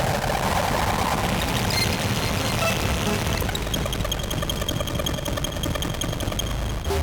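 Novation Circuit groovebox playing a noisy drone from the Howl preset pack: a dense, steady wash of noise over a low rumble, with a few steady high tones coming in about halfway through.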